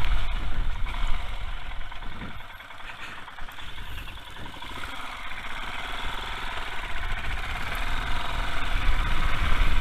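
Royal Enfield Himalayan's single-cylinder engine running under wind noise. It eases down and ticks over about two seconds in, then the engine and wind build gradually as the bike pulls away.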